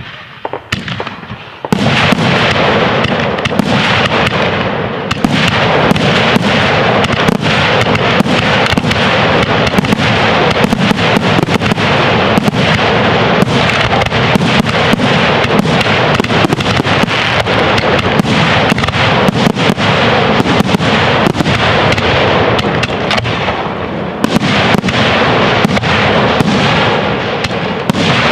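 Fireworks display in a dense, continuous barrage: a few scattered bangs, then from about two seconds in a nonstop rapid stream of bursts and crackling.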